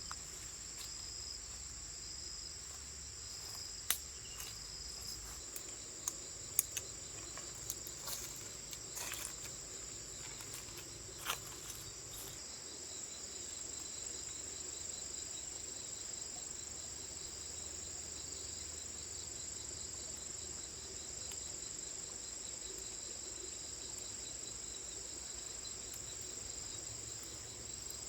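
Insects chirping steadily in a continuous high-pitched chorus, with a faster even pulsing from about halfway in. Scattered sharp clicks and taps come through in the first half.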